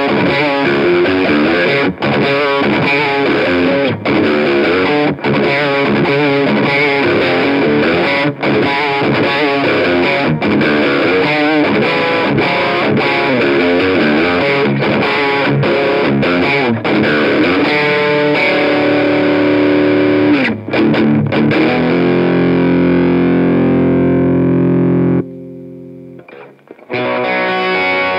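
Single-coil Lace Sensor pickups of a 1987 Fender Stratocaster Plus played through a Bogner Ecstasy Red overdrive pedal into an Orange Rocker 30 amp and Marshall JCM800 2x12 cabinet: overdriven electric guitar riffs, turning to long held chords near the end. The sound cuts out suddenly for about a second and a half, then the playing resumes.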